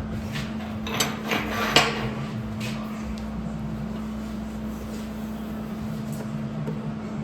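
Several sharp metal knocks over about a second, the last the loudest, during hands-on work on steel smoker parts, over a steady electrical hum.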